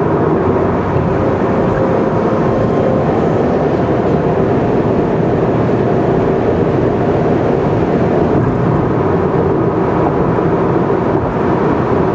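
Car cruising on an expressway: a steady, even rumble of tyres, engine and wind noise with a faint steady hum.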